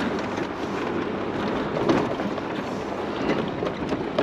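Steady road noise of a 4x4 driving slowly over a rough dirt trail, heard from inside the cabin, with scattered small knocks and rattles and one sharper knock about two seconds in.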